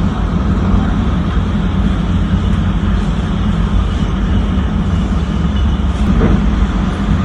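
Loud, steady rush of typhoon wind, with heavy low rumbling from the wind buffeting the microphone.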